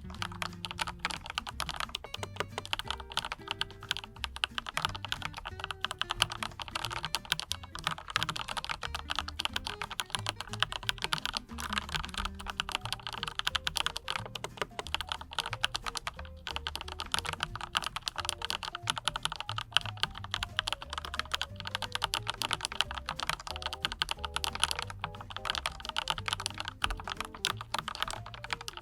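Continuous, fast typing on a NINJA87 PRO mechanical keyboard with Autumn Rain switches and Macaron PBT double-shot keycaps: a dense run of key clicks that never pauses.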